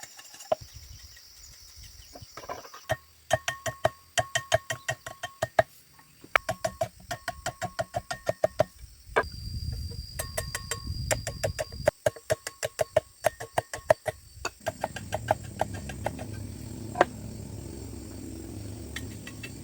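Bamboo being struck in quick runs of ringing knocks, about five a second, with short pauses between the runs. Crickets chirr steadily in the background.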